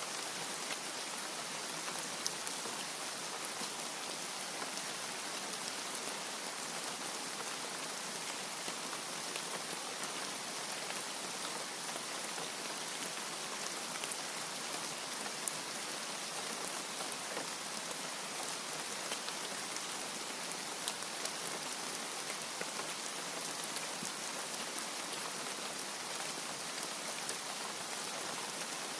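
Steady rain: a continuous hiss of many drops, strongest in the high range, with single drop ticks scattered through it.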